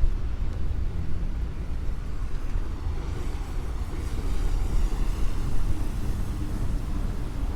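City street traffic on a wet road: a steady low rumble, with the hiss of tyres on wet pavement swelling as a vehicle passes in the middle.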